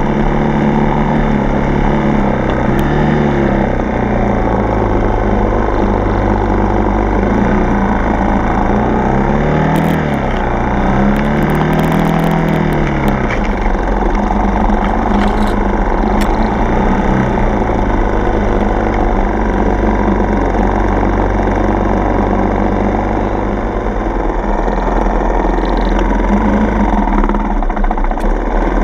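Single-cylinder four-stroke dirt bike engine running steadily while riding, its revs rising and falling a few times around the middle.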